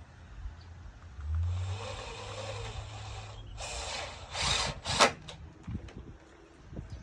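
Power drill boring into wood: one run of about two seconds, then three short bursts, the last one the loudest.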